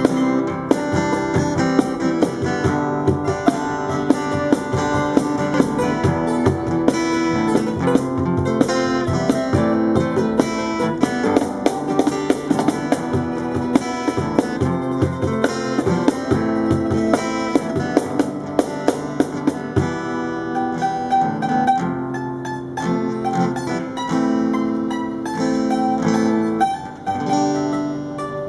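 Brazilian popular music played live: strummed acoustic guitar over steadily beating percussion. About two-thirds through the percussion thins out, leaving longer held notes.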